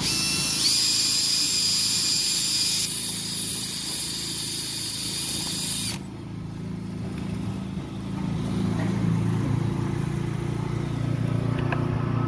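A handheld power tool whining at high speed, winding up at the start and stopping abruptly about six seconds in, over a steady low motor hum that grows louder in the second half.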